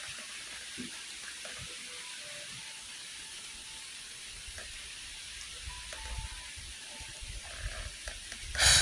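Steady hiss of rain during a thunderstorm, with a low rumble of thunder building in the second half and a short, sharp crack near the end.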